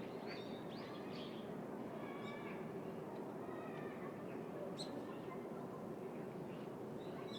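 City park ambience: a steady low hum of distant city noise, with short bird calls in the first second, around two seconds in, and a brief sharp one near the five-second mark.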